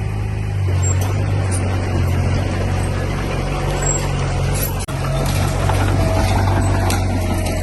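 Heavy diesel engine of earthmoving machinery running steadily under load, with faint metallic clanks. The sound drops out for an instant about five seconds in.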